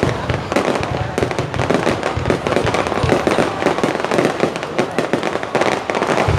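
Aerial fireworks display going off: a dense, rapid stream of bangs and crackling pops, with voices of onlookers mixed in.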